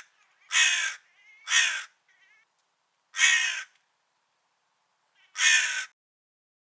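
Crow cawing: four caws of about half a second each, the first two a second apart, then two more spaced about two seconds apart. The tail of another caw ends just at the start.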